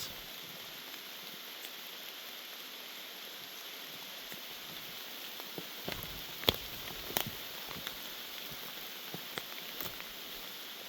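Heavy, steady rain hissing down, with a few sharp taps around the middle, the loudest about six and a half seconds in.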